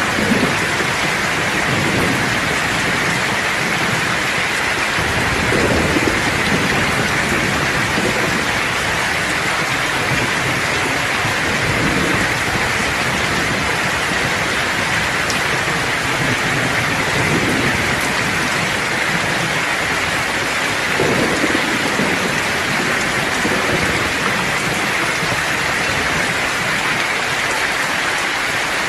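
Steady, even downpour of rain, with low thunder rumbling several times beneath it.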